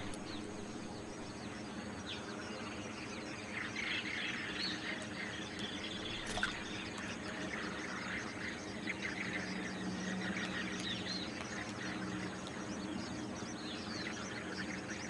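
A flock of wetland shorebirds calling, many short chirps overlapping throughout, over a steady low hum of background noise.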